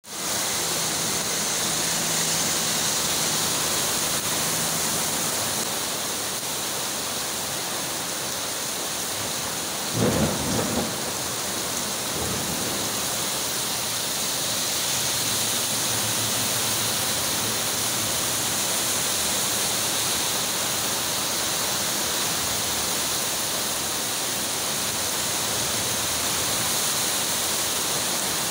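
Heavy rain pouring steadily, with a short, sharp clap of thunder about ten seconds in that rumbles briefly and fades.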